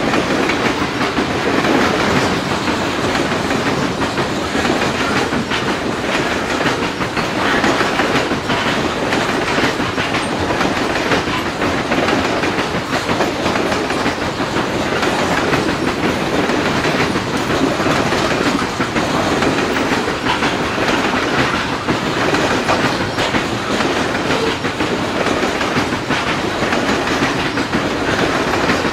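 Loaded coal hopper cars of a Canadian Pacific freight train rumbling past: a steady, loud rolling of steel wheels on rail with repeated clacks.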